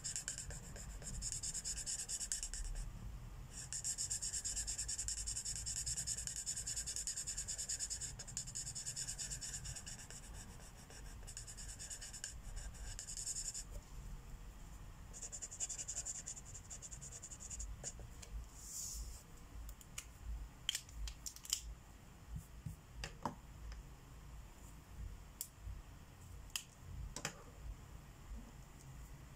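Marker tip rubbing back and forth over paper while colouring in, in long stretches with short pauses. In the second half the scratching gives way to a series of sharp separate clicks and taps.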